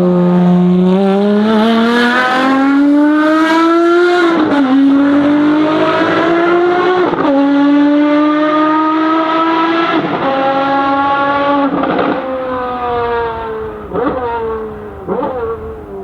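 Ferrari FXX Evo's V12 at full throttle, pitch rising through the gears with two sharp upshifts about four and seven seconds in. It then lifts off and falls in pitch, with quick throttle blips on the downshifts as the car brakes, and the sound fades somewhat near the end.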